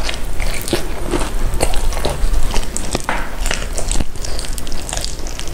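Close-miked eating: crunchy bites and chewing of food, a dense, irregular run of crackly clicks and squishes.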